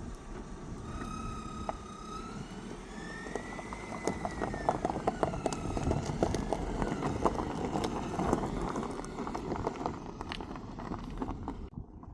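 A vehicle travelling over a rough track, with a steady low running noise and many rattling knocks. A wavering high whine rises and falls over the first several seconds.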